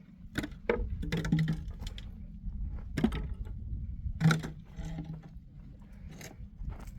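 A series of irregular knocks and clatters, with the loudest about four seconds in.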